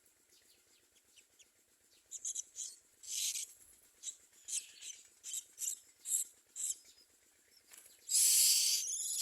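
Common mynas calling at the nest: a run of short high chirps, then a loud harsh rasping call starting about eight seconds in.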